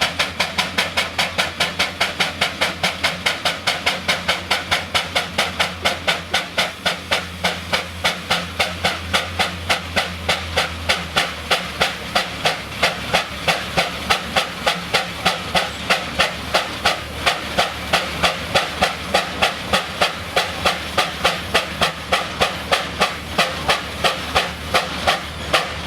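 Steam traction engine's exhaust chuffing in a fast, even beat, about four chuffs a second, with steam hissing.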